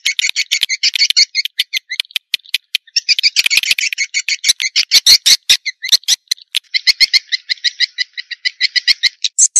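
Swiftlet lure call: swiftlets' fast, buzzy chattering twitter, made of rapid pulses in bouts of one to two seconds with short breaks between them.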